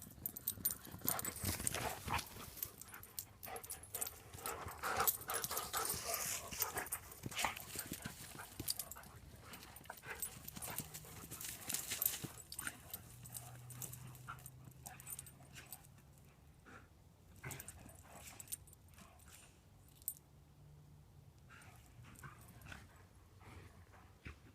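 A dog making a dense run of quick clicks and scuffles, busiest in the first half and thinning out after about twelve seconds.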